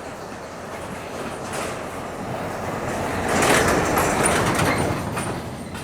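A vehicle passing close by: its rushing noise swells, is loudest about three and a half to five seconds in, then fades.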